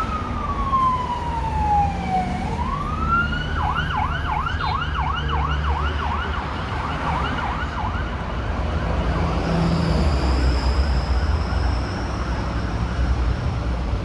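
Emergency vehicle siren on a busy road: a slow falling-and-rising wail that switches about four seconds in to a fast yelp of about three sweeps a second, then fades, over the steady low rumble of road traffic.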